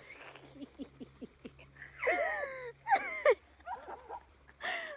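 A bird calling: a few short, squawking calls that slide down in pitch, the first about two seconds in and the last near the end, with faint ticks before them.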